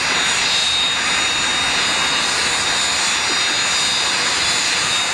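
Aircraft engine running steadily: a loud, even roar with a thin steady high whine on top.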